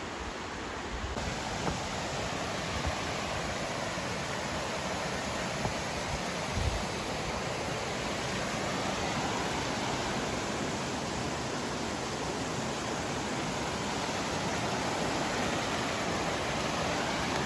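Mountain stream rushing over rapids: a steady, even wash of water noise, growing slightly louder near the end.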